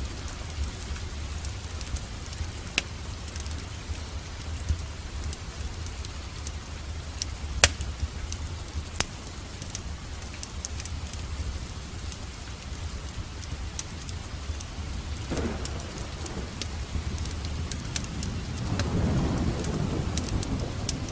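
Steady rain with a deep low rumble underneath, dotted with sharp crackles from a fireplace. Near the end a roll of thunder swells up.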